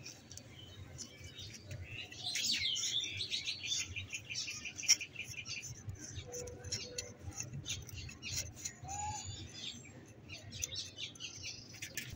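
Small birds chirping and calling, with a fast run of repeated high notes about two to four seconds in.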